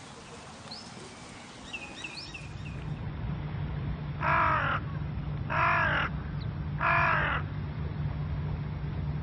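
A crow cawing three times, evenly spaced about a second and a half apart, over a steady low background hum. Before it come faint, short, rising chirps of small birds.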